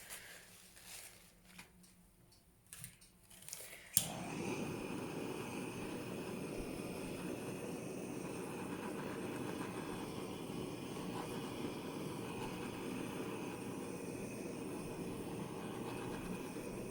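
A blow dryer clicks on about four seconds in and then runs steadily: an even rush of air with a high whine over it. Before that there are only a few faint handling sounds.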